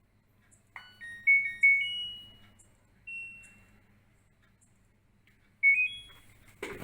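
Electronic beeps from a washing machine's control panel: a short run of rising tones about a second in, a single beep about three seconds in, and another quick rising run near the end, as buttons are pressed. A sharp knock comes right at the end.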